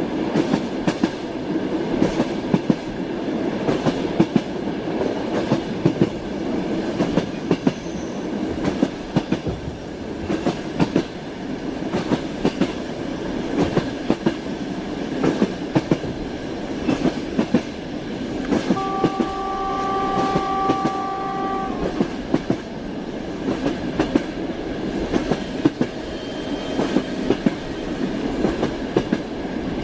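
Train riding with its wheels clicking over the rail joints over a steady rumble, heard from on board. A horn sounds as one steady tone for about three seconds, about two-thirds of the way through.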